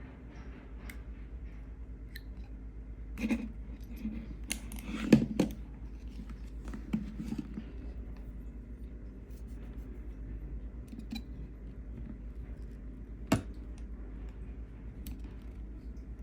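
Small tools and plastic parts of a GoPro camera being handled and pried at during a repair: scattered light clicks and scrapes, a cluster of louder clicks between about three and five and a half seconds in, and one sharp click near the end, over a steady low hum.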